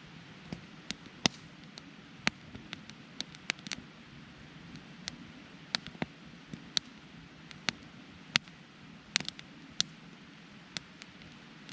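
Wood campfire crackling, with irregular sharp pops and snaps, a couple of dozen in a few seconds, over a steady low rush of burning.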